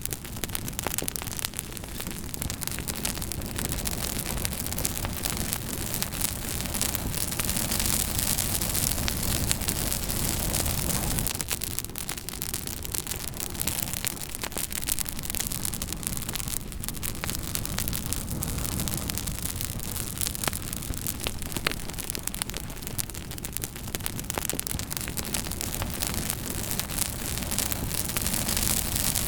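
Campfire burning, with many small crackles and pops over a steady rushing hiss.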